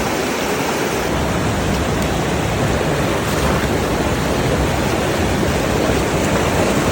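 Steady rushing noise of a fast-flowing mountain stream.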